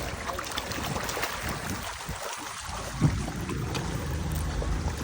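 Wind on the microphone over a steady low rumble, with a single knock about three seconds in.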